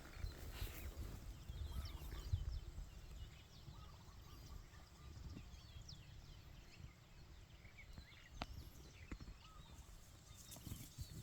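Faint outdoor ambience: scattered short chirps of small birds over a low rumble, with a few sharp clicks.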